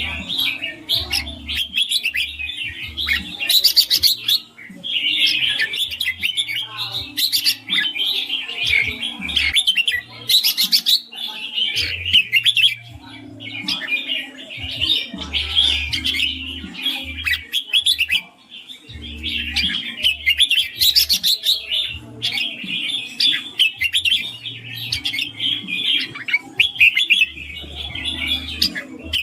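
Red-whiskered bulbul singing, a dense run of quick, high chirping phrases with a few short breaks.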